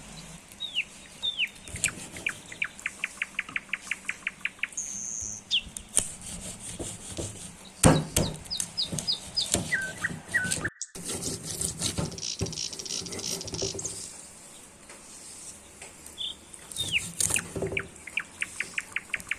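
Songbirds singing: short downward whistles and fast trills of evenly repeated notes, several times over. Scattered sharp knocks and clicks sound among them, the loudest about eight seconds in.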